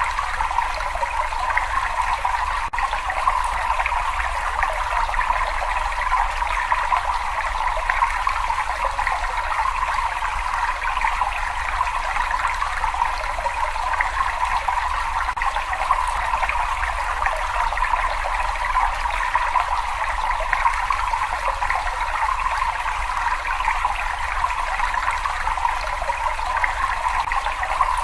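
Water flowing and trickling steadily, an even splashing rush with a low steady rumble beneath it.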